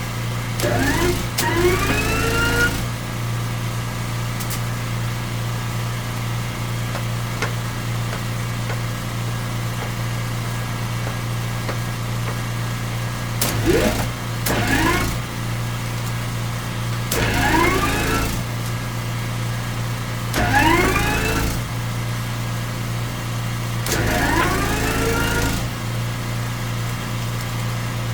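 Drain jetter's engine running steadily, with about five short rushes of high-pressure water, each bringing a rising whine that levels off as the spinning disc cleaning head spins up in the pipe.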